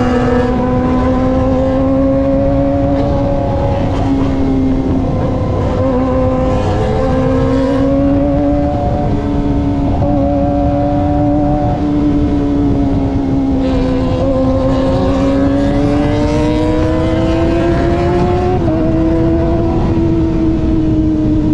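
Kawasaki ZX-25R's 250 cc inline-four with an aftermarket racing exhaust, cruising at steady revs that rise and fall slowly; about 18 seconds in the pitch climbs, then steps down once. Wind noise runs underneath.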